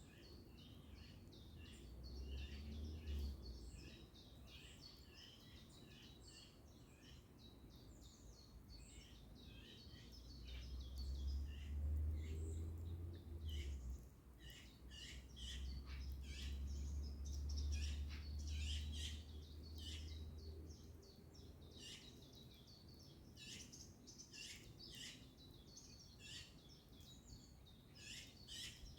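Many small birds chirping and singing in short, overlapping calls, busier in the second half. A low rumble comes and goes underneath, loudest through the middle.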